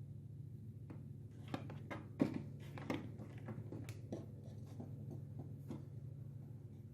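A run of light clicks and taps from small tools and parts being handled on a workbench, the sharpest a little over two seconds in, over a steady low hum.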